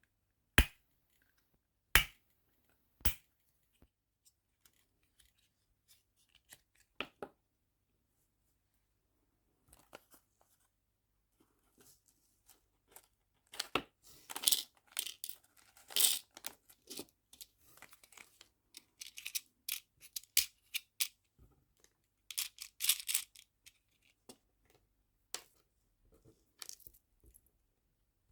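Small nail-art charms being sorted by hand, clicking and rattling against plastic. It opens with three sharp clicks in the first few seconds, then turns to a scatter of small clatters that thicken twice, around the middle and again later.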